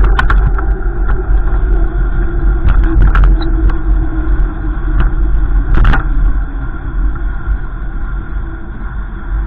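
Wind buffeting the microphone, a loud, uneven low rumble, with a few sharp clicks along the way.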